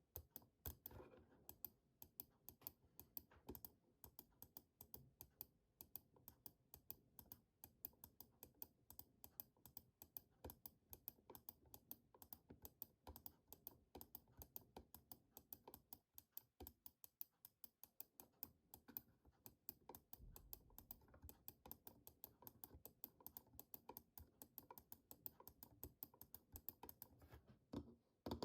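Computer keyboard keys being tapped and typed on softly, a quick run of light clicks at several a second, with a short pause about two-thirds of the way through.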